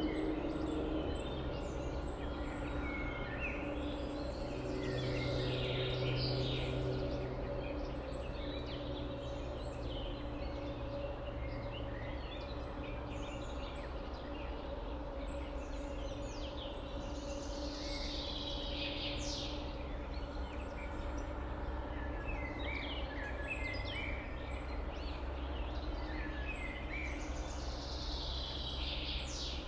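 Several birds singing and calling, short chirps and sweeping phrases overlapping, over a steady low hum.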